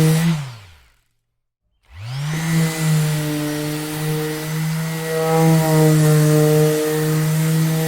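Electric orbital sander switched off, its motor winding down in pitch to a stop. After about a second of silence it is switched back on, spins up and runs steadily.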